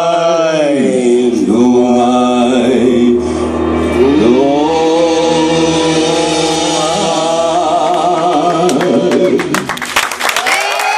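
Male voices singing drawn-out closing notes of a song with the band, in three long phrases. Near the end the audience starts clapping and cheering.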